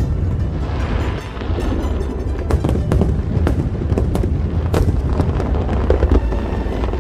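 Aerial fireworks bursting one after another, sharp bangs and crackles over a steady low rumble, with music playing along.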